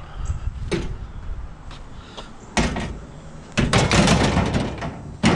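Junk and scrap being shifted around in a dumpster: a few knocks, a loud bang about two and a half seconds in, then about a second of loud clattering scrape, and a sharp bang near the end.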